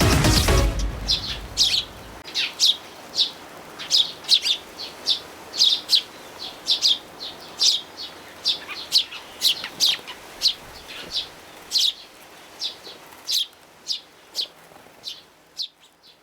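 Eurasian tree sparrows chirping: a run of short, sharp chirps, roughly two a second, thinning out near the end. Background music fades out at the start.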